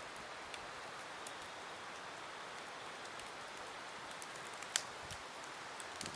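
Campfire burning with a steady hiss and scattered crackling snaps, one sharper pop about five seconds in.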